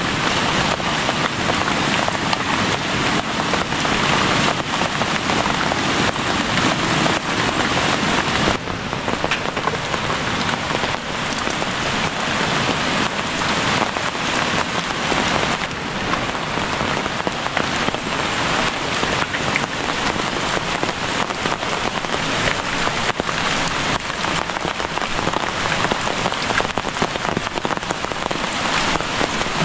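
Steady rain falling, a dense patter of drops on leaves and wet ground.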